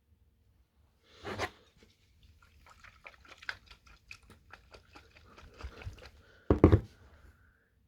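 A glass bottle of soapy water being handled and swirled: a knock about a second in, a run of small irregular clicks and sloshes, then a loud double knock near the end.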